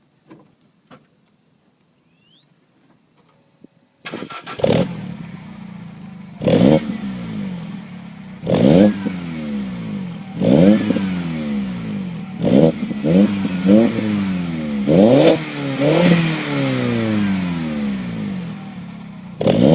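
Peugeot 207 engine breathing through a Fox stainless steel aftermarket exhaust from the catalytic converter back: it starts about four seconds in, idles, and is then revved in short blips again and again, each rev rising and dropping back to idle.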